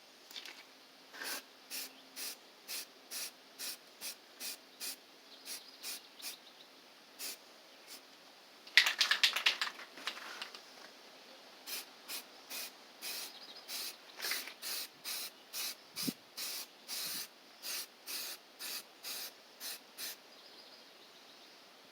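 Aerosol can of filler primer sprayed in short hissing bursts, about two a second, onto a cast-iron engine block. There is a louder rapid clatter for a second or two near the middle.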